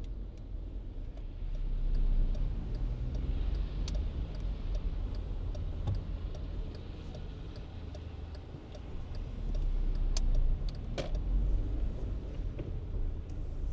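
A car driving on snowy city streets: a steady low rumble of engine and tyres that swells twice. A light regular ticking, about two ticks a second, runs through the middle, and two sharper clicks come near the end.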